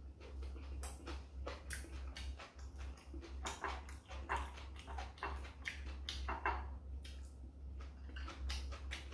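Close-miked chewing and lip-smacking of a man eating, in short irregular smacks, with chopsticks tapping the side dishes; a steady low hum underneath.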